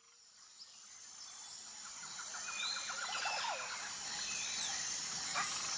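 Outdoor nature ambience fading in: a steady high insect buzz with scattered bird chirps and a quick trill of repeated notes partway through.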